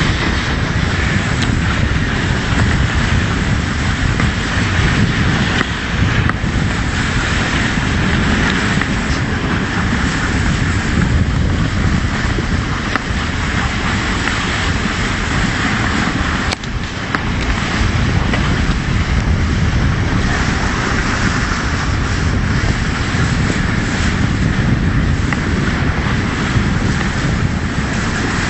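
Steady rushing noise of a dog sled running over snow, the runners hissing through a soft, heavy track, with wind buffeting the microphone.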